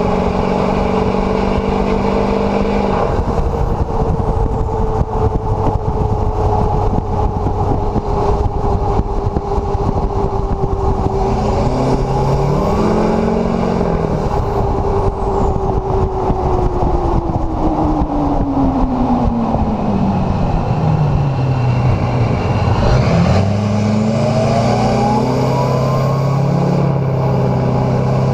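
LLY Duramax 6.6 L V8 turbodiesel running loud through a straight-piped exhaust with the catalytic converter and muffler removed. The engine note holds steady, sinks away over several seconds about two-thirds of the way in, dips sharply, then climbs again near the end.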